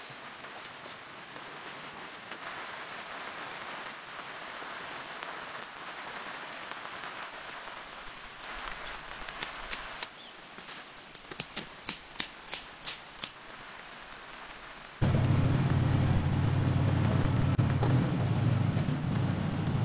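Steady rain falling, heard as an even hiss. Midway comes a quick run of about a dozen sharp clicks, and about three-quarters of the way in a much louder steady low hum starts abruptly and carries on.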